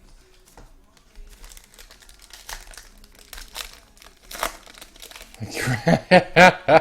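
Trading card pack wrappers crinkling and tearing as packs are ripped open: a run of short crackles. A man's voice comes in near the end.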